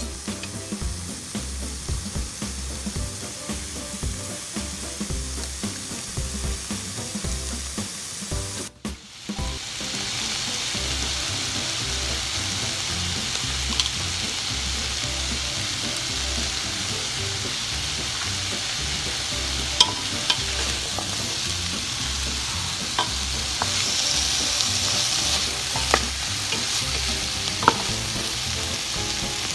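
Chicken frying in oil with shredded carrot and onion in a deep pot, sizzling steadily while a wooden spatula stirs and turns it. The sizzle drops out briefly about nine seconds in and then runs more evenly. In the second half there are a few sharp knocks of the spatula against the pot.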